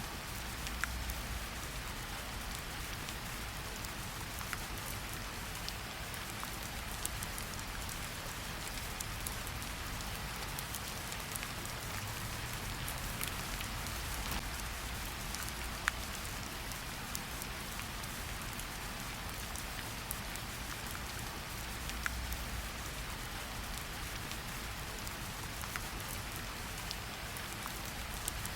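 Steady rain falling in a forest: an even hiss with scattered single drops ticking close by.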